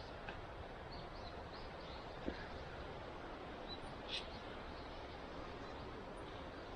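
Quiet woodland ambience: a steady low hiss with a few faint, brief bird chirps and a couple of soft clicks.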